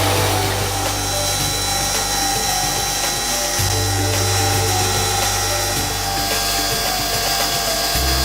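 CNC machine cutting metal with an indexable carbide multifunction tool, a steady grinding, chattering cut with a high whine, over background music with low held bass notes that change pitch about a third of the way in and near the end.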